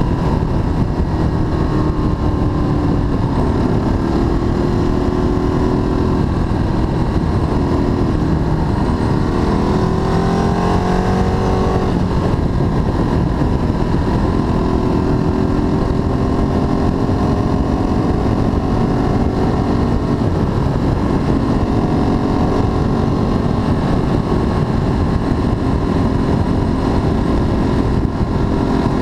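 Ducati Streetfighter 1098S's 1099 cc L-twin engine running at speed, heard from the handlebars over a steady rush of wind and road noise. Its pitch climbs for a few seconds about nine seconds in, then drops sharply about twelve seconds in.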